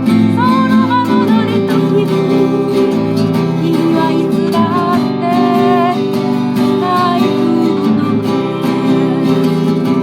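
Music: a strummed acoustic guitar playing steady chords, with a short wavering melody line above it that comes and goes a few times.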